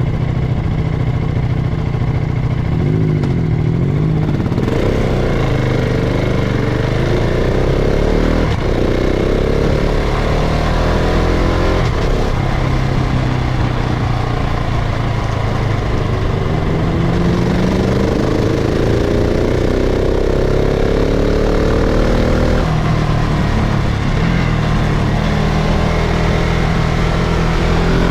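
KTM 690 SMC-R single-cylinder engine pulling through the gears. The engine note climbs again and again, dips at each gear change and falls back once off the throttle, with a steadier stretch late on before it rises again near the end.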